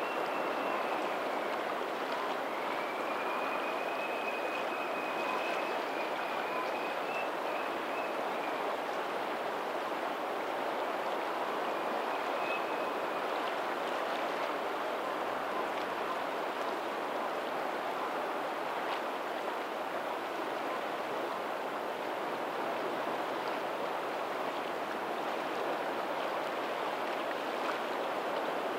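Steady, even rushing of a lagoon's tidal outflow streaming toward the sea, with faint distant ocean waves. A faint high thin whistle comes and goes in the first several seconds.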